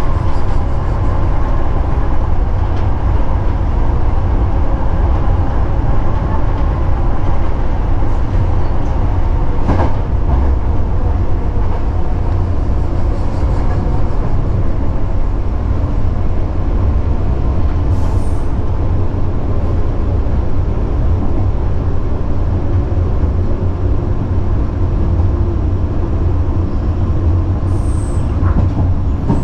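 Sanyo Electric Railway train running along the track, heard from the driver's cab: a steady, continuous rumble of wheels on rail and running gear. A faint whine sits over it for the first several seconds, and there is a single short click about ten seconds in.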